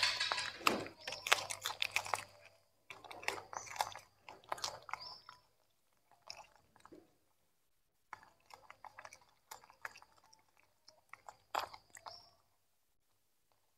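Young monkeys chewing and crunching carrot and broccoli: bouts of crisp, wet crunches with short pauses between them, quiet for the last second or so.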